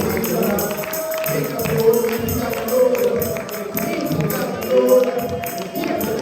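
Church worship music: voices singing over instruments, with a steady beat of tambourine and hand claps.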